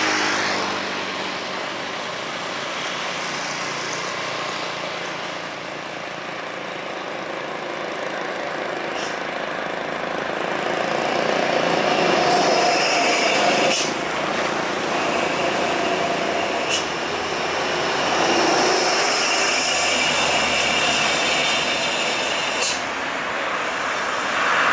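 Heavy diesel trucks passing one after another on a highway climb, engine and tyre noise swelling and fading as each goes by, with a few sharp clicks among it.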